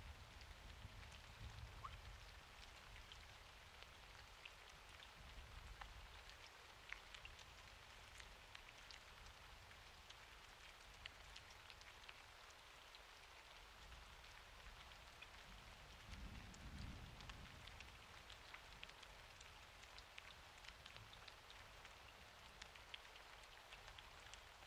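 Faint steady rain, with single drops ticking on surfaces. A low rumble of distant thunder swells briefly about two-thirds of the way through.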